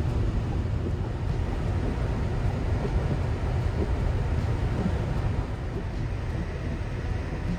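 Steady road noise from tyres and wind heard inside the cabin of a Tesla electric car driving at highway speed on a snowy road, with no engine sound. The noise is a low, even rumble with a slight drop in level about five and a half seconds in.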